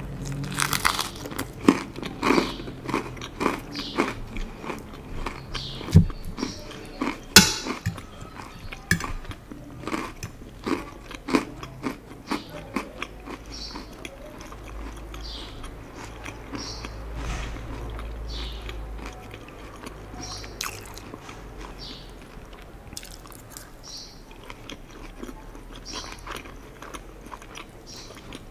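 Close-miked crunching and chewing of a crisp cracker: dense crisp crunches in the first dozen seconds, thinning to sparser, softer chewing and mouth clicks.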